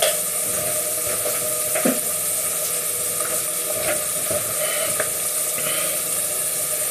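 Onions sizzling as they fry in a pan: a steady hiss with a few faint clicks.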